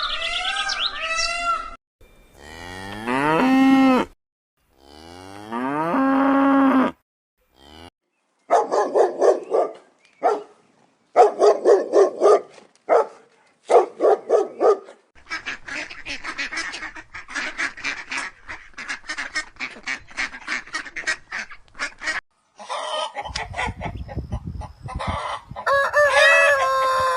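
A run of farm-animal calls. Two long cow moos come first, then geese honking in quick runs of short loud calls, then a stretch of fast, dense waterfowl chatter, with more calls near the end.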